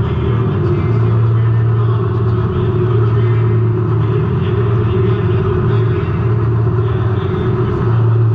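Race car engine running hard and steady, heard from inside the car, its note dipping briefly a few times as the throttle eases, over a constant rumble of road noise.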